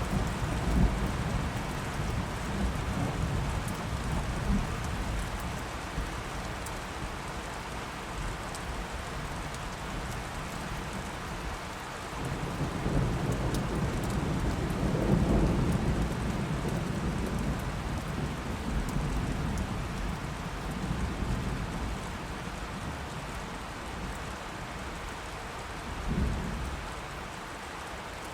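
Steady rain falling, with rolling thunder: a rumble fading out at the start, a long rumble swelling and dying away through the middle, and a short one near the end.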